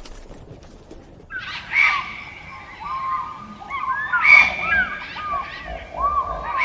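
A flock of domestic fowl calling over one another in many short, overlapping calls, starting about a second in.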